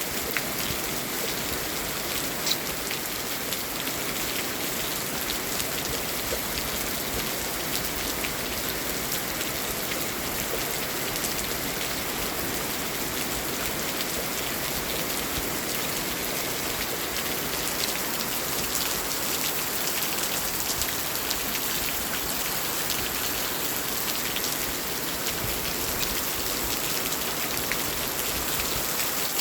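Heavy rain falling steadily, an even hiss with scattered sharp drip ticks.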